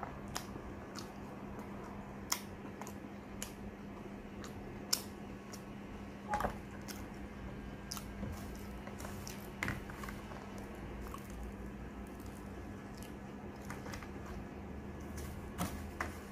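Close-up eating sounds: a person chewing pieces of sweet potato with scattered sharp mouth clicks and smacks, over a steady low hum.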